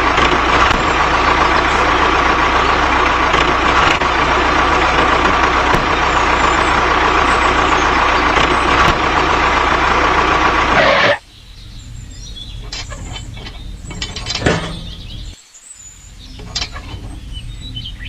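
An engine running loud and steady for about eleven seconds, then cut off abruptly. It is followed by a quieter stretch of scattered metallic clicks and clinks.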